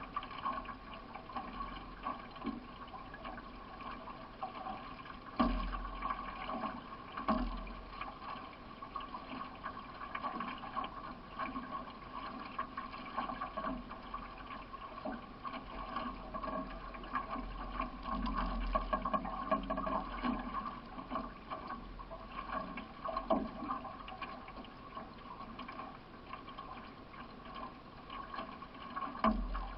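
Water splashing and gurgling around a racing solo canoe as it is paddled, with irregular paddle strokes in the water. There are a few low thumps, the first about five seconds in and another near the end.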